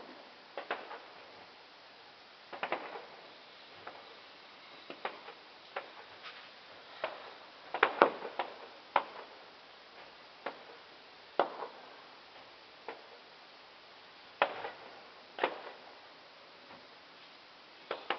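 Fireworks going off in separate sharp bangs at irregular intervals, about one a second, each with a short rumbling tail, over a faint steady hiss. The loudest cluster comes a little before the middle.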